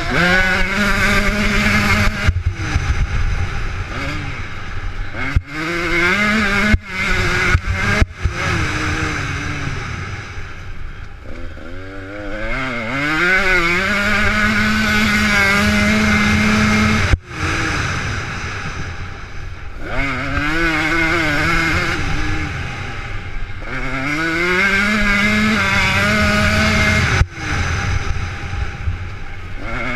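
Motocross motorcycle engine revving hard, its pitch climbing and dropping again and again through the gears, with several abrupt breaks in the sound.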